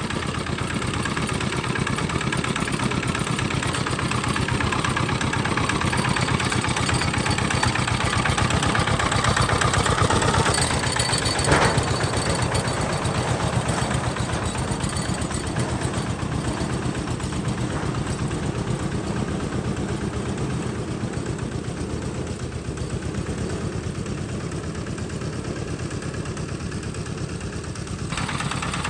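A homemade tractor's engine running steadily, with a single short knock about a third of the way through.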